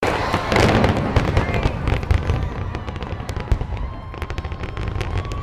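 Fireworks display: a dense volley of booms and crackles in the first second or two, then many scattered sharp pops and crackling bursts.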